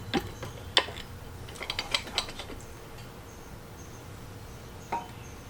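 Scattered metallic clicks and taps from tools and engine parts being handled during an engine teardown, several in the first two seconds and one more near the end. Faint, short, high chirps sound in the quieter stretch between.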